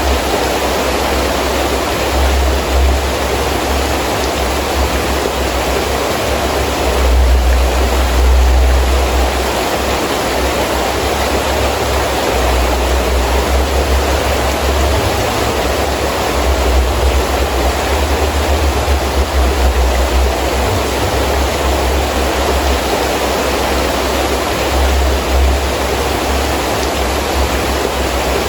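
Heavy rain falling steadily, with gusting wind whose low rumble swells and eases every few seconds, loudest about a quarter of the way in.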